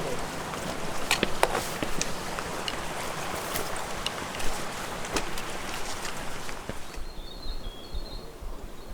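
A rustling, crunching noise with scattered sharp clicks, which about seven seconds in gives way to a quieter background with faint, high chirping calls of a New Zealand tomtit (miromiro).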